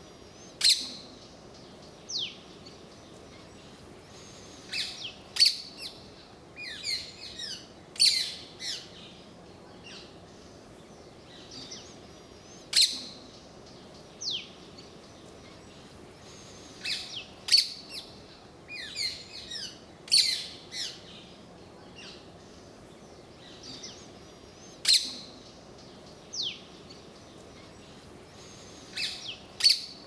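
Birds calling: sharp high chirps and clusters of quick chattering notes, with now and then a single short falling whistle. The same run of calls comes round again about every twelve seconds.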